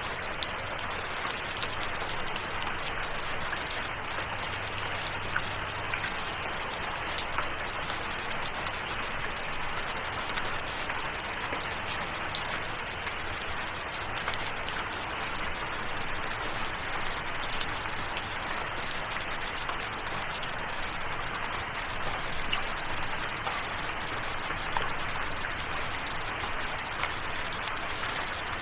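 Steady rain falling, an even hiss with many separate drops landing as sharp little ticks throughout.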